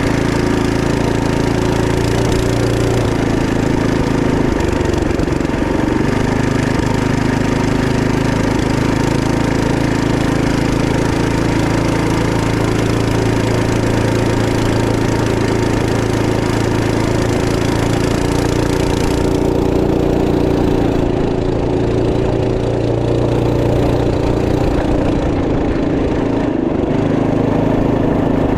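Trail Master MB200 minibike's Ace Up 212cc single-cylinder four-stroke engine running steadily, its pitch dipping and recovering briefly about four seconds in.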